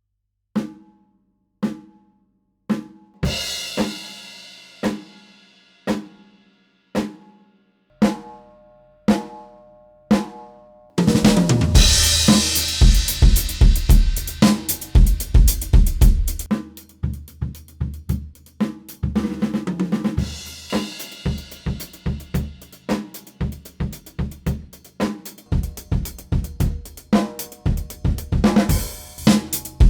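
Acoustic drum kit, close- and room-miked: single strokes about once a second, one of them with a cymbal ringing on, then about eleven seconds in a full beat of kick drum, snare, hi-hat and cymbals.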